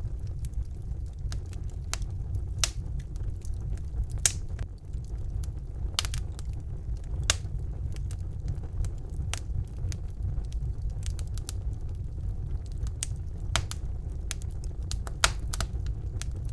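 Wood fire burning in a fireplace: a steady low rumble of the flames with irregular sharp crackles and pops of the burning logs, a few louder pops standing out.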